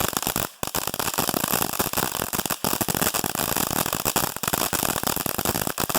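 Firehawk Magic Carnival cone fountain burning: a loud, dense hiss of spraying sparks packed with rapid crackles, briefly dipping twice.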